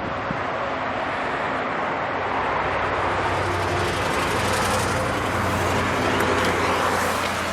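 Steady motor-vehicle noise: a low steady hum under a broad rushing haze, a little louder for a few seconds after the middle. A faint click right at the start.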